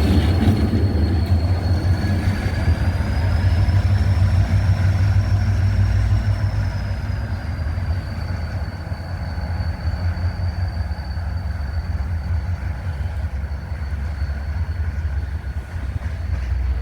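GT22 diesel-electric locomotive running, a deep steady engine rumble with a thin high whine over it that rises slightly a few seconds in and settles back.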